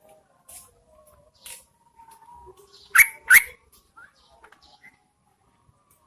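Yellow-vented bulbul, a female, calling: a few faint chirps, then two loud sharp notes in quick succession about three seconds in.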